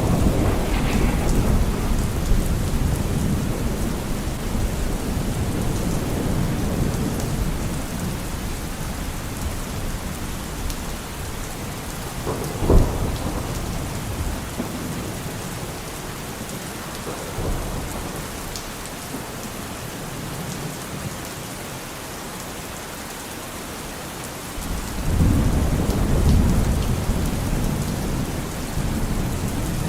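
Steady rain with rolling thunder. A deep rumble fades away over the first ten seconds, a single sharp crack comes about halfway through, and another low rumble swells up near the end.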